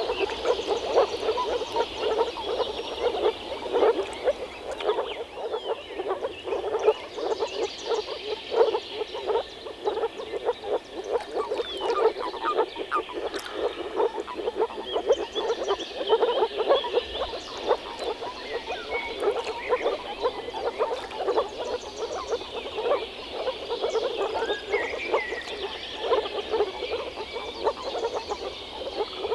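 A chorus of moor frogs (Rana arvalis) calling, many short, low calls overlapping with no break.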